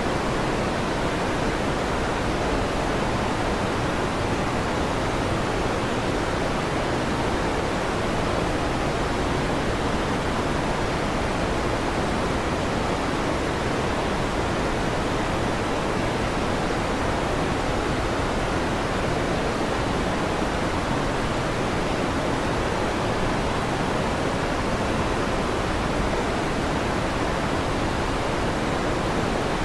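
Electric fan running steadily: an even, unchanging whooshing noise, strongest in the middle range.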